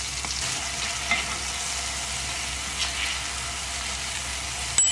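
Chicken-and-apple patties frying in oil in a cast-iron skillet: a steady sizzling hiss, with a few light clicks of a spatula against the pan, the sharpest just before the end.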